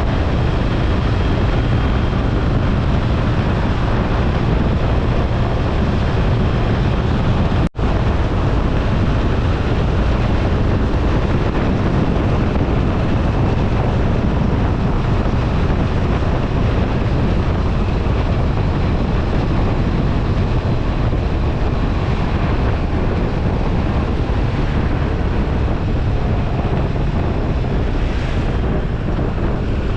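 Wind rushing over the microphone of a BMW R1250RT motorcycle under way, with the bike running underneath. The sound cuts out for an instant about eight seconds in.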